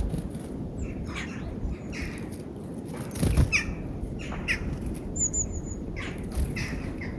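Small songbirds at a peanut feeder giving short chirps and calls, with a quick run of four high, thin notes about five seconds in. A dull thud comes about three and a half seconds in.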